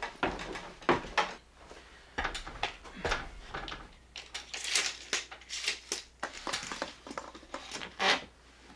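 Irregular knocks, clicks and rustling, like objects being handled and bumped in a small room, with a louder knock about eight seconds in.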